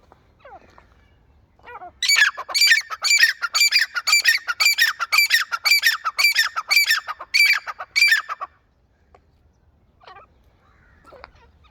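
A pet francolin (teetar) calling: a loud series of sharp notes repeated about three times a second, lasting some six seconds, with a few fainter calls before and after.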